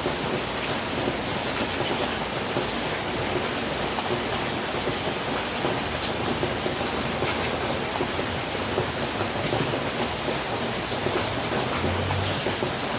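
Steady rain falling on a house roof: an even, continuous hiss with occasional faint sharper drop ticks.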